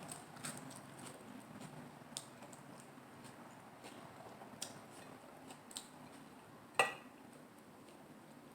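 Close-miked eating of lettuce-wrapped salad rolls: soft chewing with scattered small wet mouth clicks. There is one sharp, ringing clink about two-thirds of the way through, the loudest sound.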